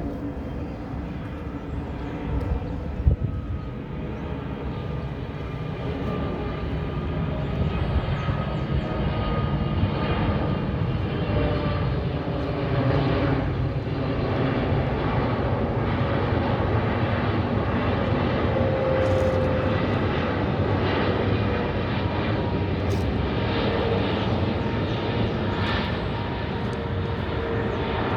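Boeing 777-300ER jet airliner passing, its GE90 turbofan engines making a steady rumble that builds over the first several seconds and then holds loud, with faint whining engine tones over it.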